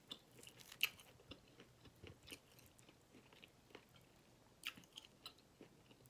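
Faint chewing of turkey chops, with small scattered mouth clicks, a few close together near the end.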